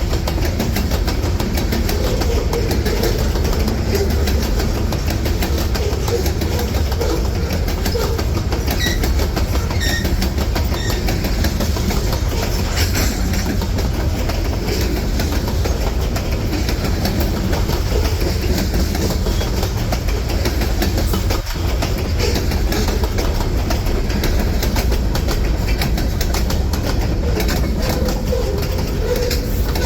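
Freight train cars rolling past steadily, wheels clacking over the rail joints over a continuous low rumble.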